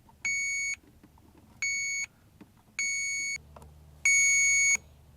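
Electronic beeper sounding four even-pitched high beeps, the fourth louder and longer than the rest; a faint low hum starts just past the middle.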